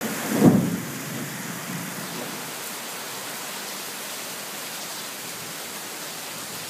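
Heavy thunderstorm rain falling on roofs and a flooded street, a steady hiss. About half a second in there is a brief, loud low thump.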